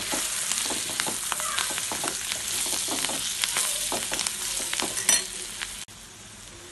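Goat lung pieces sizzling in oil in a metal kadai while a spatula stirs them, scraping and clicking against the pan. A louder clack comes about five seconds in; soon after, the stirring stops and the sound drops suddenly to a quieter steady sizzle.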